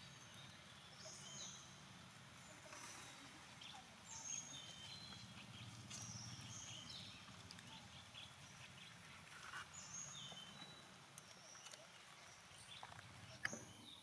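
Faint outdoor ambience of small birds giving short, high chirps and whistles every second or so, over a low steady hum, with a sharp click near the end.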